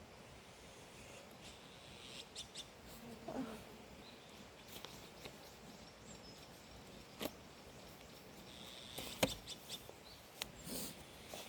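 Faint outdoor ambience: a steady hiss broken by scattered small clicks and rustles, with a few short bird chirps. The sharpest click comes about nine seconds in.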